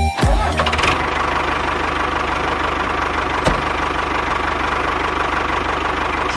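An engine running steadily at idle, with one sharp click about three and a half seconds in.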